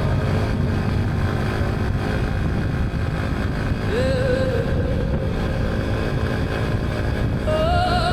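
Motorcycle engine running and wind buffeting the microphone while riding, a steady low rumble. A brief wavering tone sounds about four seconds in and again near the end.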